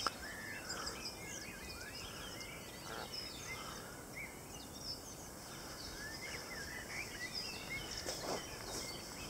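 Faint chorus of songbirds: many short, overlapping chirps and whistled notes.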